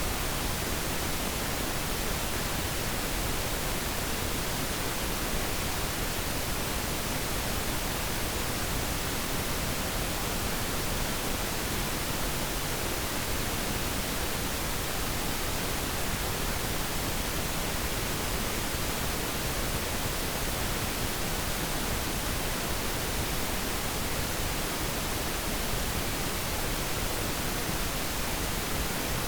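Steady pink noise: an even, unbroken hiss spread across all frequencies, softer in the highs than white noise.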